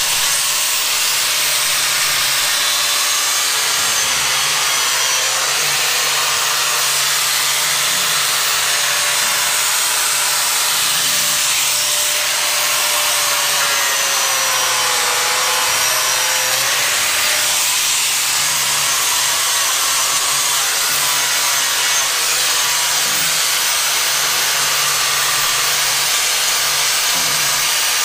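Power tool spinning a Norton Blaze Rapid Strip abrasive disc against truck steel, stripping it down to clean metal: a steady whirring hiss. The motor's pitch sags a little under pressure around the middle, then recovers.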